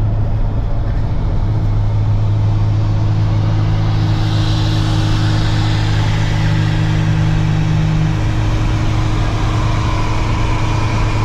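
A car driving at a steady speed: a constant low engine drone with road hiss and no revving.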